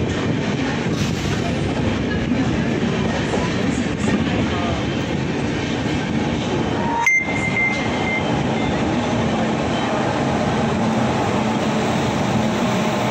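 Indian Railways express train coaches running along a station platform, heard from an open coach door: a steady rumble of wheels on the rails. About seven seconds in, a sharp click and a brief high tone.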